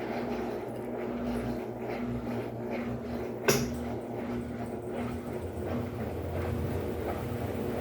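Electrolux Silent Control 12 kg LAC12 washing machine at the start of its spin cycle: steady motor hum and drum rumble, with one sharp knock about three and a half seconds in and the rumble growing stronger near the end.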